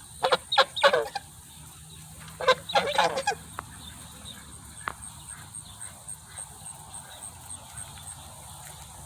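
Geese honking in two loud bursts of calls, one at the start and another about two and a half seconds in, then falling quiet.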